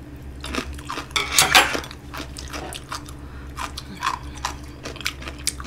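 Close-miked chewing and wet mouth sounds of someone eating a mouthful of food, with scattered small clicks of a metal fork against a plate and jar; the loudest cluster comes about a second and a half in.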